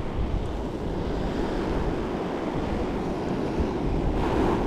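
Waves washing onto a beach, with wind noise on the microphone.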